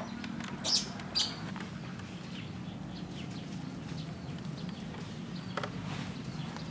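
A small bird chirping twice about a second in, over a steady low background hum.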